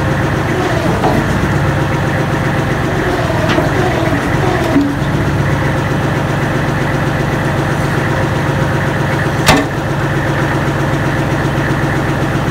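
Kubota L35 tractor's diesel engine running steadily while the freshly resealed backhoe hydraulics are tried out, its note wavering under load in the first few seconds. A sharp knock about nine and a half seconds in is the loudest sound.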